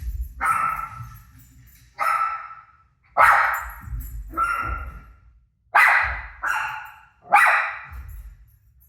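Dog barking: about seven sharp barks, a second or so apart.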